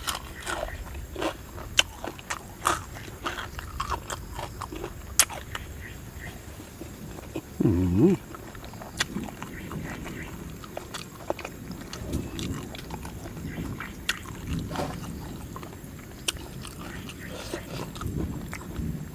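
Close-up chewing and crunching of food, with irregular sharp crunchy clicks. A brief low voiced sound, like a hum, comes about eight seconds in.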